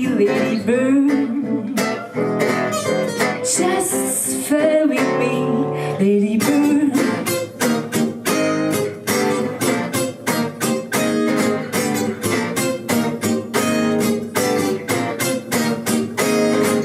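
Acoustic guitar strumming the close of a song, the first few seconds still carrying a held, wavering sung note; after that only steady, regular strums.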